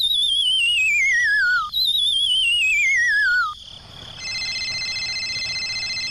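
Cartoon falling sound effect: a warbling whistle sliding down in pitch, played twice. Then a telephone ringtone sound effect, a rapid trilling ring, runs for about the last two seconds.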